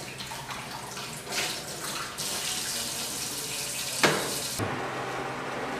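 Water running from a kitchen tap into a sink while a glass is rinsed under it, with small clinks of the glass. About four seconds in there is a sharp knock, and the splashing of the stream stops soon after.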